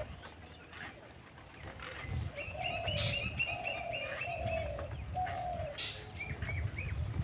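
Doves cooing in repeated low notes while a small bird chirps in quick runs of high notes. Two sharp clicks sound about three and six seconds in, over a low rumble.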